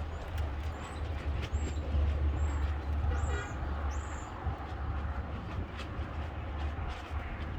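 Button quail giving about six short, very high peeps in the first four seconds, over a steady low hum, with scattered faint ticks.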